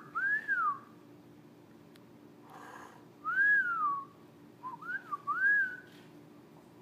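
Clear whistled notes, each rising and falling in pitch: two at the start, then after a pause a longer falling one and a quick group of three. A faint steady low hum lies under them.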